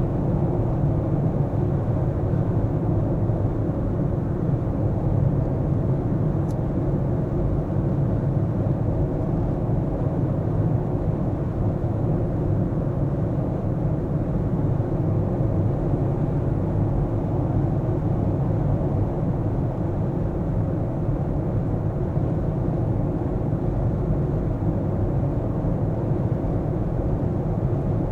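A car being driven through city streets: a steady low rumble of engine and tyre noise that holds even throughout.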